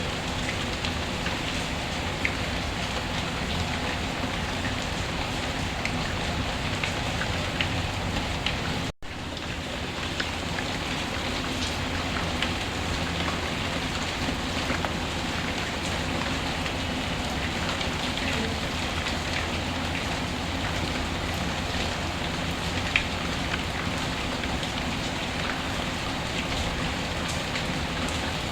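Steady rain with scattered small ticks and crackles, from a mixed rain-and-fireplace ambience. The sound cuts out for an instant about nine seconds in, then carries on unchanged.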